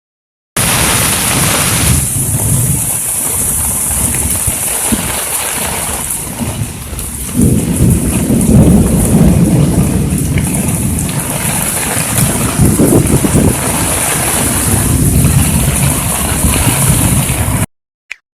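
Heavy rain pouring down in a dense, steady hiss, with low rumbling underneath that swells about seven seconds in and again near the end. The sound starts and cuts off abruptly.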